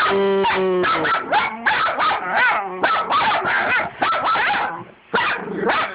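Two puppies barking and yipping at each other in a play fight. A long held call in the first second gives way to rapid, overlapping barks, with a brief pause about five seconds in.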